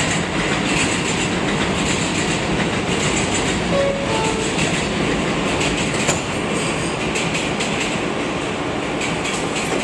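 R160B subway train running between stations: a steady rumble of steel wheels on the track with irregular clicks over rail joints, heard from inside the car.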